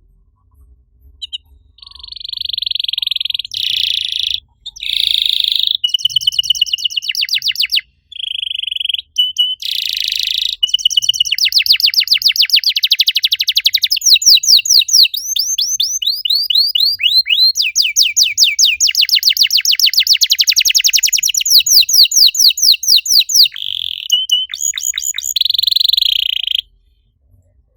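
Domestic canary singing a long song of rapid trills, switching from one phrase of fast repeated notes to the next with a few brief breaks. It starts about a second and a half in and stops shortly before the end.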